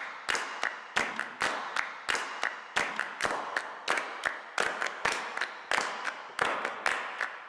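Rhythmic clapping: sharp, evenly spaced claps at close to three a second, with a faint high tone underneath.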